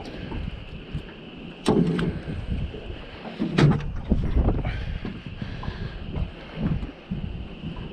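Wind buffeting the microphone on a small boat, with a faint steady whine throughout. Two loud thumps come about two seconds apart.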